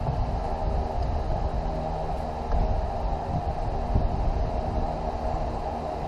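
Vehicle engine running steadily: a continuous low rumble with a steady hum above it.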